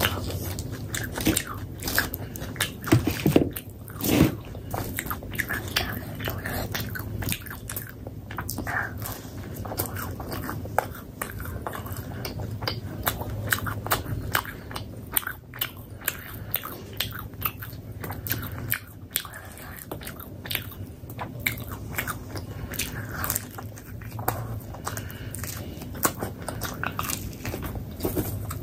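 Close-miked chewing and biting of paratha: a steady stream of wet, sticky mouth clicks and smacks, with a few louder bites about three to four seconds in.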